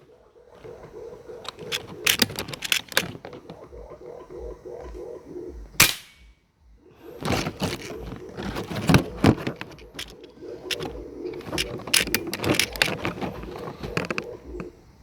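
Clusters of sharp clicks and knocks, with one loud air-rifle shot about six seconds in.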